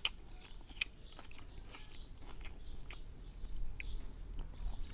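A person chewing and smacking on a mouthful of noodles and pork, with scattered short wet mouth clicks.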